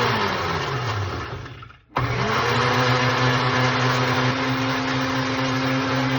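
Countertop blender pureeing a cilantro-lime marinade. The motor slows and nearly stops just before two seconds in, then starts again straight away, rising to speed and running steadily.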